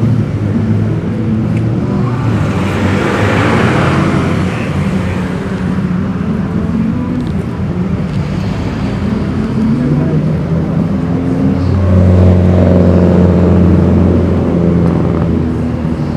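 Classic Japanese cars driving past with their engines running, one after another. One car's exhaust comes through loudest near the end.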